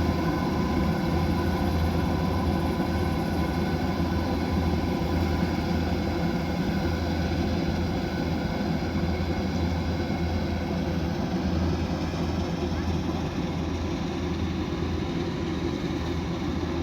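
Kubota DC108X combine harvester running steadily: a continuous deep engine drone with several steady higher whining tones from its machinery over it.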